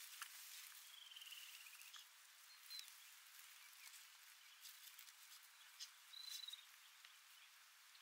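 Faint calls of a small songbird over a quiet outdoor hiss: a short, rapid, falling trill about a second in, then two brief high notes, one near the middle and one about six seconds in.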